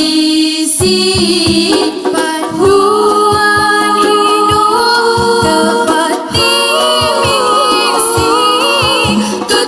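Nasyid vocal group singing sustained, wordless-sounding harmonies, with short percussion beats repeating a few times a second underneath.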